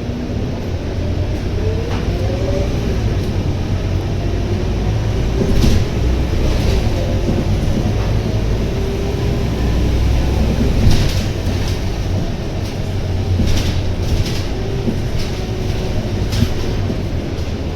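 Scania K230UB city bus under way: its Scania DC9 engine gives a steady low rumble, with a faint whine that rises and falls in pitch. Short rattles and knocks from the bus body come several times.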